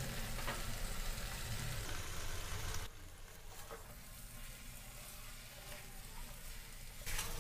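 Onion-tomato masala sizzling in mustard oil in a kadhai as boiled jackfruit pieces are tipped in and stirred with a wooden spatula. The sizzle is faint and drops quieter about three seconds in.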